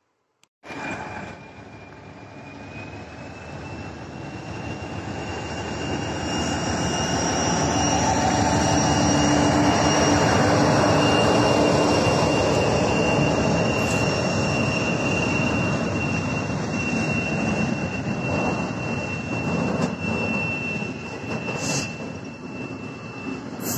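TEM2 diesel-electric shunting locomotive hauling container flat wagons past a level crossing. The engine and the wheels on the rails cut in abruptly, grow louder to a peak about ten seconds in, then carry on as the steady rumble of the wagons rolling by. A steady high-pitched tone runs over the train noise throughout.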